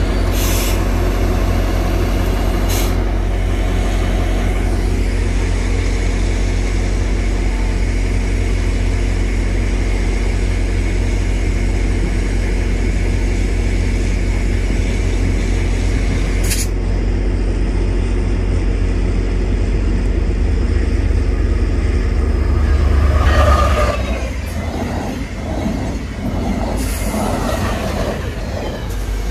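GO Transit MP40PH-3C diesel locomotive's engine droning steadily alongside the platform. About 23 seconds in it gives way to a VIA Rail passenger train passing close by at speed, loudest as it arrives.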